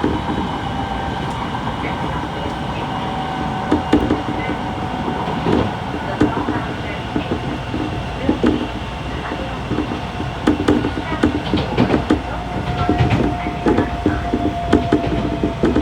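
Odakyu 1000 series electric train running, heard from inside a motor car: a whine from the traction motor drive that slowly falls in pitch, over steady running noise and irregular clatter of the wheels over rail joints.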